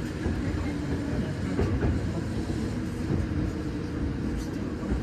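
Commuter train running along the track, heard from inside the carriage: a steady rumble with faint steady hums and a few wheel clicks over the rails.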